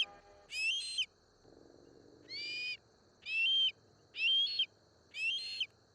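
A bird calling a short, clear call five times, about a second apart.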